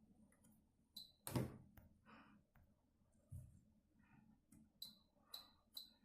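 Shoes tumbling in a washing machine drum, heard faintly: scattered soft thuds, light clicks and short swishes of wet fabric and water.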